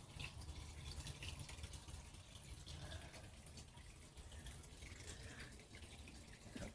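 Faint backyard ambience: a light trickle of water with scattered small ticks over a steady low rumble.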